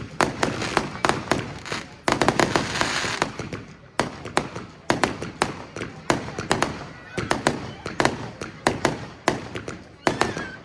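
Fireworks display: a rapid, irregular series of sharp bangs from exploding shells, with a dense stretch of crackling about two seconds in.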